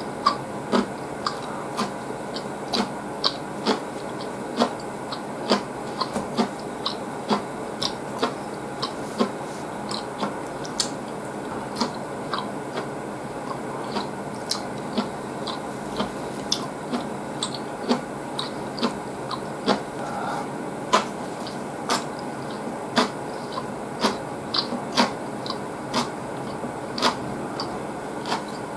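A person chewing food close to the microphone: a run of short wet mouth clicks and smacks, about one or two a second and irregularly spaced, over a steady low hiss.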